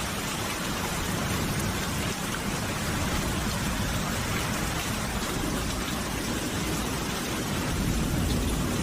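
Steady rain falling, an even hiss of drops with a low rumble underneath that swells slightly near the end.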